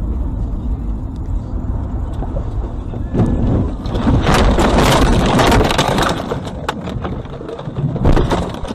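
Car driving with a low road rumble, then about three seconds in a collision: a loud crunching, scraping stretch full of sharp knocks, with another loud burst near the end.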